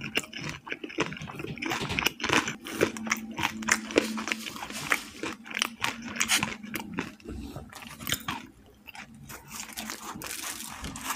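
Close-miked chewing of a mouthful of crispy fried chicken, many sharp irregular crunches and crackles, busiest in the first several seconds and sparser toward the end.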